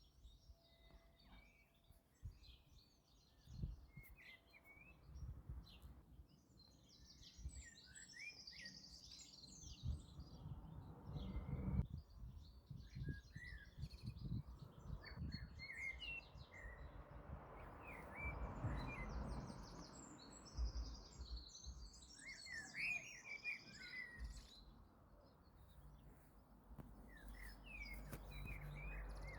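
Small birds chirping in many short, quick calls, faint, over an uneven low rumbling noise on the microphone.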